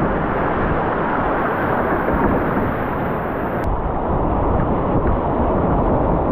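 Creek whitewater rushing past the kayak: a loud, steady wash of moving water.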